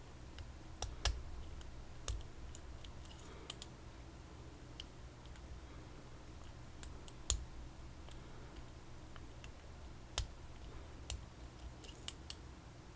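Lock picks working inside a PacLock 90A Pro padlock: scattered small metallic clicks and ticks at an uneven pace, a few louder than the rest, the loudest about seven seconds in.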